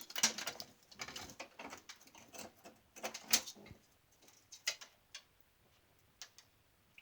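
White-bellied caique bathing in a small dish of water, splashing in short, irregular bursts; the loudest splash comes a little past three seconds in, and the splashes thin out toward the end.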